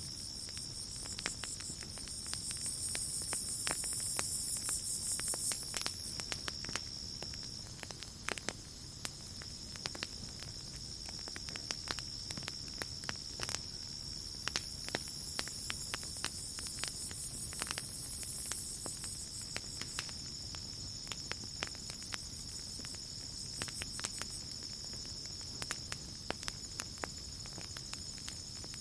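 Campfire crackling with irregular sharp pops, over a steady high-pitched cricket trill. A higher insect buzz swells up twice, early and again about halfway through.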